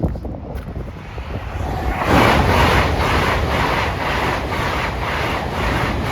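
LNER express passenger train passing at speed, a loud rush of wheel and air noise that builds sharply about two seconds in, with a regular beat a little over two times a second.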